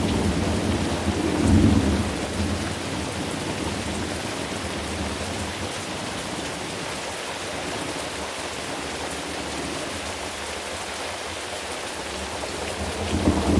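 Thunderstorm: steady rain hiss with rolling thunder. A rumble peaks in the first two seconds and dies away, and another rumble builds near the end.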